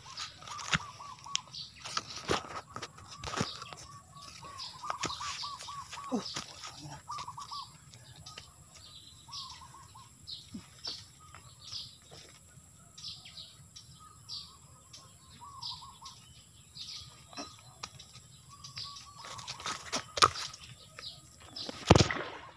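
Small birds chirping and calling in short repeated notes, with scattered knocks and rustles; a sharp, loud knock comes near the end.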